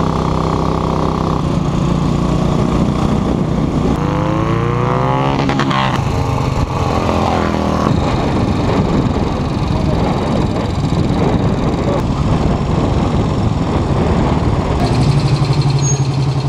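Several 1960s racing motorcycle engines running at speed, one revving up in a rising pitch about four to six seconds in.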